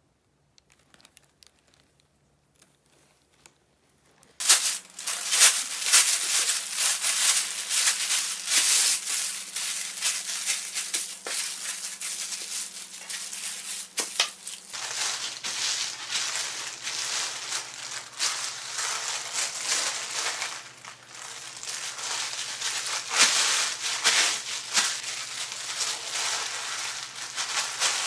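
Continuous crinkling, rattling noise of something being handled, starting suddenly about four seconds in after near silence, over a faint steady hum.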